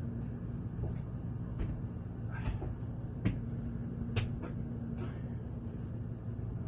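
A few sharp knocks and clicks, the clearest three spread over about two seconds in the middle, over a steady low hum.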